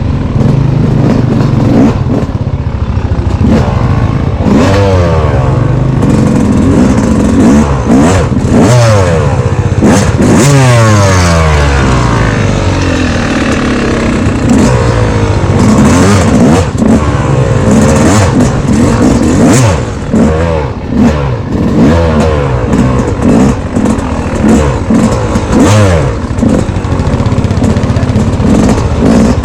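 Off-road vehicle engine ridden hard on a trail, its pitch climbing and dropping over and over as the throttle is worked and gears change, with scattered knocks from the rough ground.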